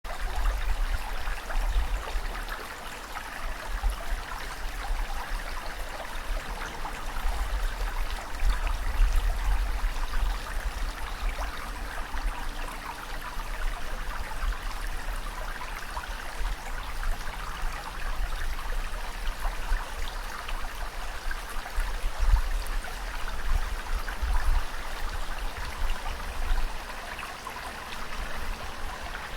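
Ocean surf: a continuous rush of moving water over a low rumble that swells and eases, with no breaks.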